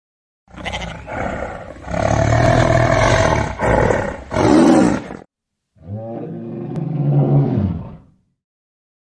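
A big cat roaring in two bouts: a long run of several roars, then after a brief pause a second, shorter roar.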